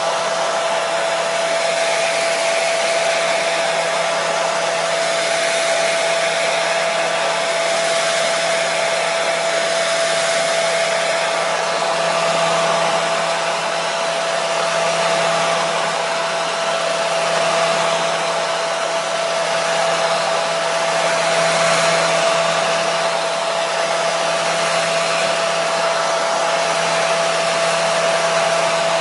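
Hair dryer running steadily: an even rush of blown air with a steady motor whine and a low hum, played as white noise to soothe a colicky baby.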